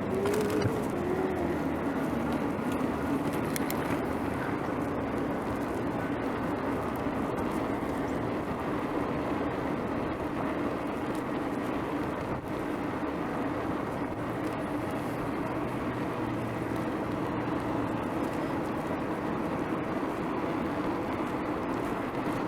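Steady rush of strong wind on a muffled microphone while riding a bicycle, mixed with road noise.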